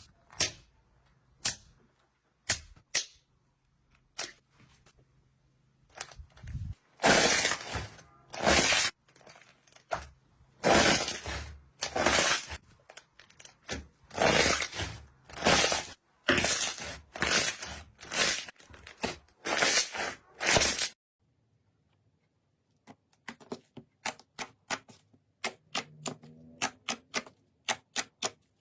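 Crunchy slime being pressed and poked close to the microphone: a few scattered crackles, then about a dozen loud crunches roughly once a second. After a short break comes a quick run of small crackling clicks.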